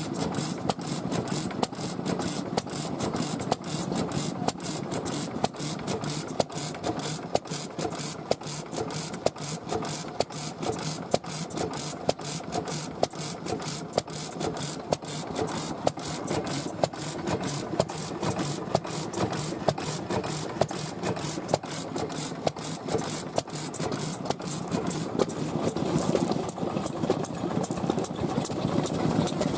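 Old Japanese stationary engines (hatsudoki) running at idle, a steady chugging with sharp regular ticks several times a second.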